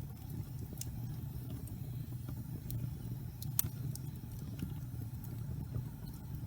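Log fire burning in a fireplace: a steady low rumble with scattered sharp crackles and pops, the loudest pop about three and a half seconds in.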